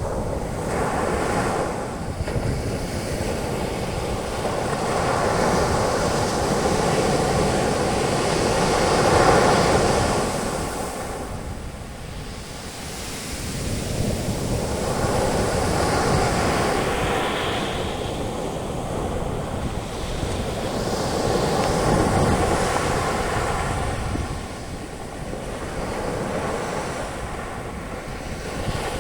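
Ocean waves breaking and washing up the beach as foam, a continuous surf that swells and ebbs every several seconds, with wind on the microphone.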